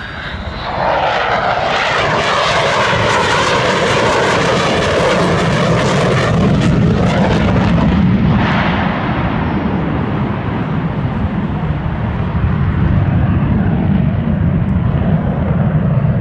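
A jet aircraft flies past with a loud roar that builds about a second in. Its higher part sweeps in pitch until about eight seconds in, then it settles into a low, steady rumble as the aircraft moves away.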